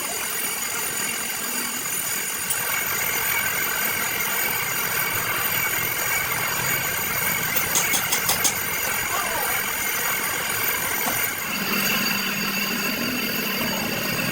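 A machine running steadily, with a short rapid run of clicks about eight seconds in and a lower, steadier hum setting in near the end.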